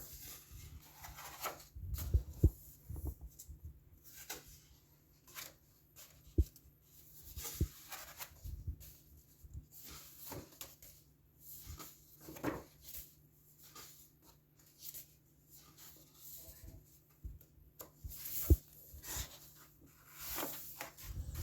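Coloring book being handled and its paper pages turned: scattered soft rustles, with a few sharp knocks as the book is moved.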